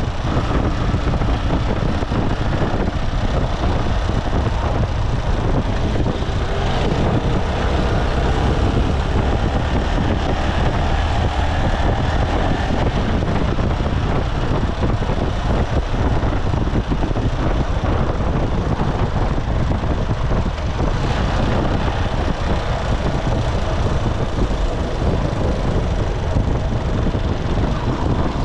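Motorcycle engine running under way, with steady road noise and a heavy low rumble throughout.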